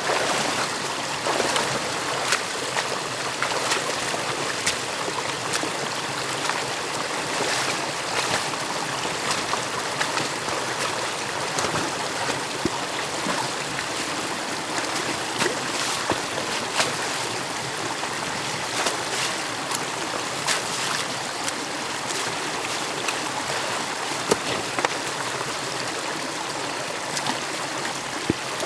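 Stream water rushing and trickling through an opening in a beaver dam, steady throughout, with frequent small sharp splashes and clicks.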